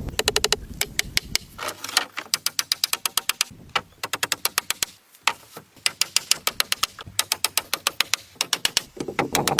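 Rapid runs of sharp taps or clicks, about ten a second, coming in bursts with short pauses between them.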